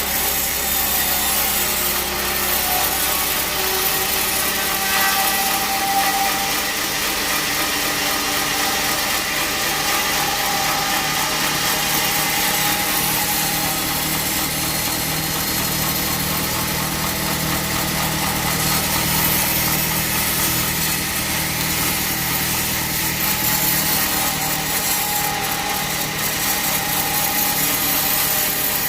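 Band sawmill running steadily, its blade cutting through a teak log: a constant hiss over a steady hum, without a break.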